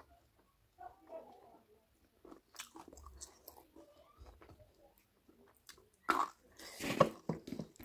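Close-up eating sounds of a person chewing mouthfuls of chicken curry and rice eaten by hand, small wet clicks of the mouth, with louder chewing starting about six seconds in as a fresh mouthful goes in.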